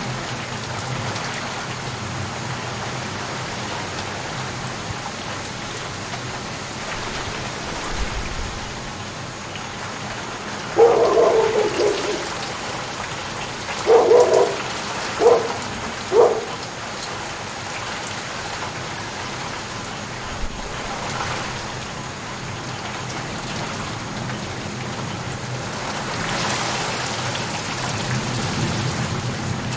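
Steady rain falling. About a third of the way in come four short, loud calls, the first the longest and the other three in quick succession.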